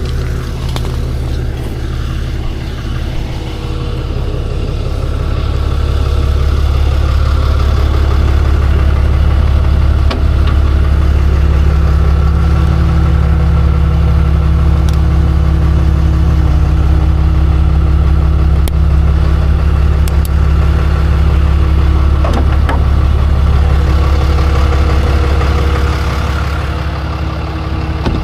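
Tow truck's engine running steadily. It comes up in level about five seconds in, holds there, and eases back down near the end.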